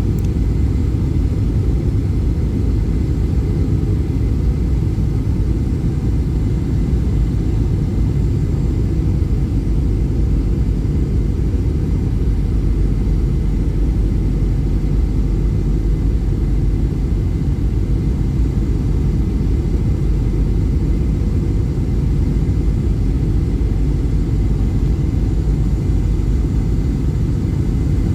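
Steady, deep cabin rumble inside a Boeing 737-800 on its descent to land: the noise of its CFM56 jet engines and the air rushing past the fuselage, heard from a passenger seat.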